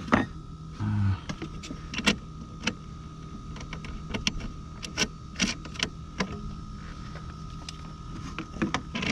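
Irregular clicks and taps of metal hardware and tools being handled while bolts are fitted to refrigerator mounting brackets, with a short low motor whir about a second in.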